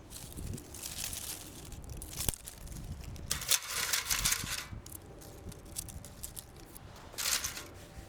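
Rustling and crinkling from something being handled, in three bursts, with a sharp click about two seconds in.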